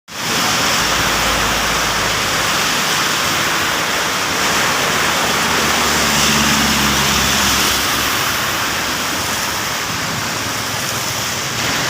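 Heavy rain falling steadily, with a vehicle engine running past underneath it, loudest about six to seven seconds in.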